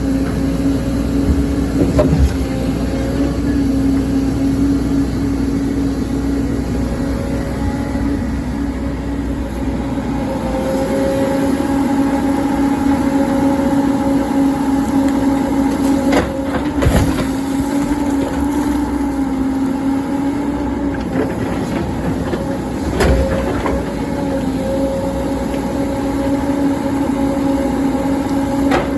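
Excavator's diesel engine running steadily under working load, with a constant hum, and a few sharp knocks, twice close together about halfway through.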